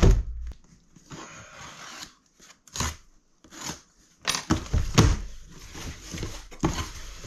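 A product box and its packaging being opened and handled: scrapes, rustles and a few knocks, the loudest a thump at the start and another about five seconds in.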